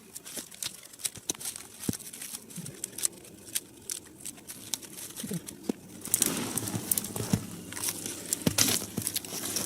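Small dry wood crackling and snapping: scattered sharp clicks, thickening into a denser, louder crackle about six seconds in.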